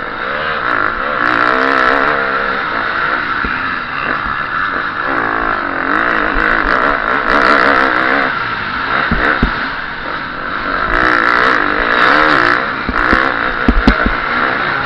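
KTM SX-F 350 four-stroke motocross engine heard onboard, revving up and dropping back again and again as the rider works the throttle through the corners and jumps, with scattered knocks from the bike over rough ground.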